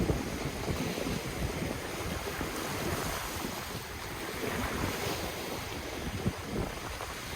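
Ocean waves washing steadily against the shore, with wind buffeting the microphone.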